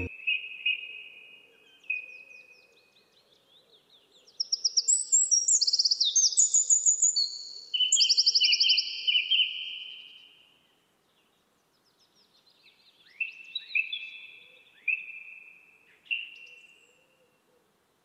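Songbird singing: a few short notes, then several seconds of loud, fast trilled phrases, and after a pause a run of short notes that rise sharply and then level off.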